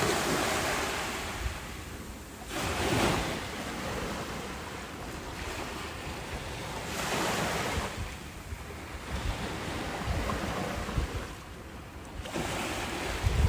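Ocean waves breaking and washing ashore in surges a few seconds apart, with wind buffeting the microphone.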